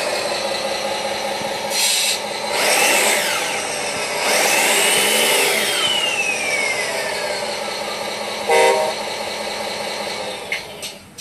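An RC truck's electronic sound module plays simulated truck sounds through its small speaker: turbo whistles that rise and fall, with several hisses. A short horn blast comes about eight and a half seconds in.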